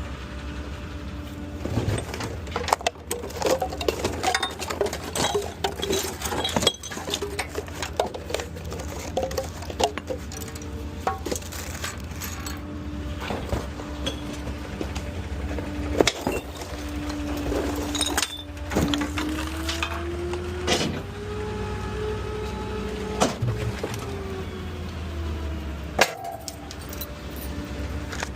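Trash clattering, with glass bottles clinking and breaking, as litter cans are emptied into the hopper of a New Way Diamondback rear-loader garbage truck on a Ford F-550, over the truck's idling engine. Around twenty seconds in the engine pitch rises for a few seconds and then falls back, as the packer runs.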